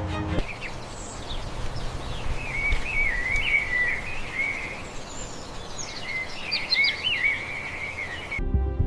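Birdsong: two long warbling, chirping phrases over a steady outdoor hiss. Music stops just after the start and cuts back in near the end.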